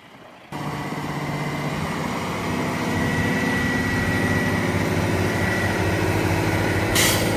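A semi-truck's diesel engine running steadily. It starts abruptly about half a second in and gets a little louder around two and a half seconds in, with a short hiss near the end.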